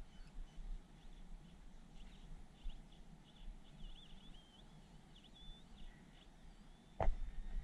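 Faint bird song, short wavering chirps over a low background rumble. Near the end comes a sudden burst of knocks and rustling close to the microphone.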